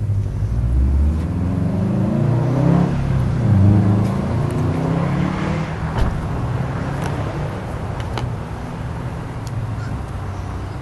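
A car engine running close by, its pitch rising and falling as it revs or moves, loudest a few seconds in, then settling into a steadier running sound. A single sharp click about six seconds in.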